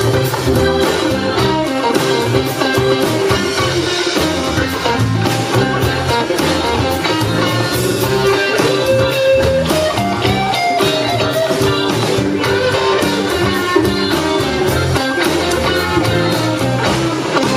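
Blues band playing live, electric guitar to the fore over bass and a steady drum beat.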